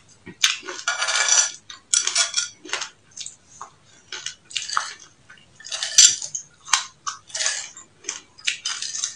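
Crunchy chewing of a mouthful of sesame seeds with frozen passionfruit, in many short irregular crunches, with a few sharp clinks of a metal spoon against the plate.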